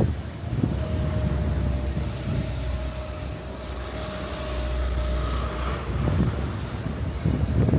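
Wind buffeting the microphone in uneven low gusts over a steady street rumble. A faint steady tone is held for about four seconds in the middle.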